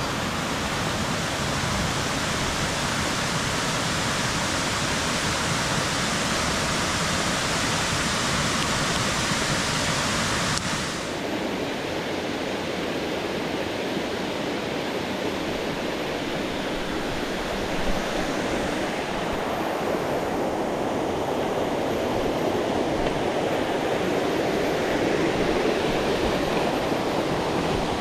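Steady rush of water from a waterfall. About a third of the way in, the sound changes abruptly from a brighter hiss to a deeper, lower rush.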